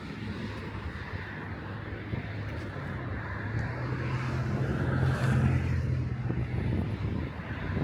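Low engine hum of a passing motor vehicle, growing louder to a peak about five seconds in, then easing off.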